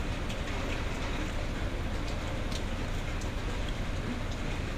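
Steady rain, with a few faint clicks over it.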